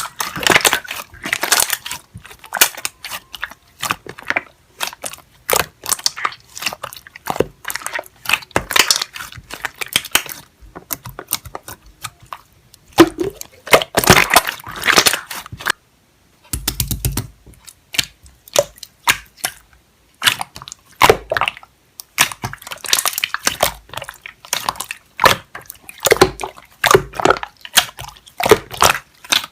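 Rapid, irregular clicks and crunchy taps in clusters, with a brief complete pause about halfway through.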